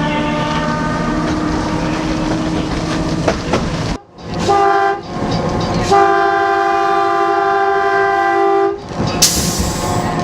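Train whistle, likely the steam locomotive's chime whistle, sounding a short blast and then a long one of about three seconds over the train's running noise. A short hiss follows near the end.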